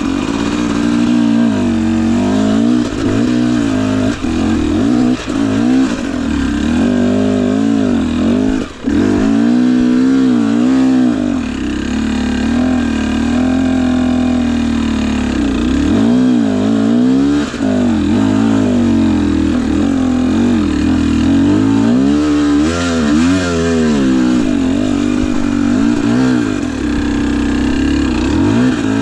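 Husqvarna TE250i two-stroke dirt bike engine running under changing throttle, its pitch rising and falling again and again as it picks its way down a muddy trail.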